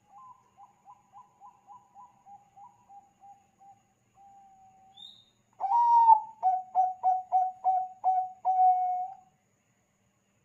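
Bangkok-strain zebra dove (perkutut) singing: a soft run of a dozen or so quick staccato coos, then about halfway through a much louder phrase of one long opening note followed by about eight rapid coos that end on a held note.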